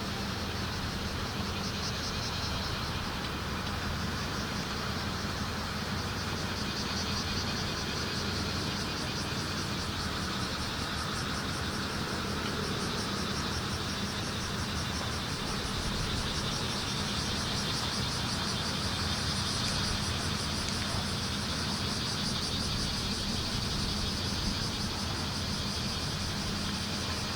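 Bear cicadas (kumazemi) singing in a pulsing high chorus that swells and fades, over a steady low hum.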